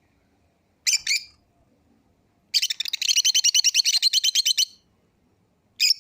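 Pet lovebirds chirping: two or three short, high chirps about a second in, then a fast chattering run of about ten chirps a second lasting some two seconds, and a single chirp near the end.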